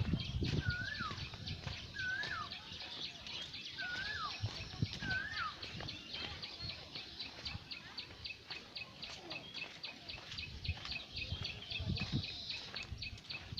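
Birds calling: a short whistled call that rises and then falls, repeated about four times in the first five seconds, then a fast, even series of high chirps, about four a second, through the second half.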